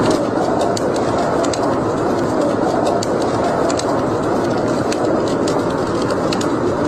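Wood fire burning in a fireplace: a steady roar of flames with frequent sharp, irregular crackles and pops.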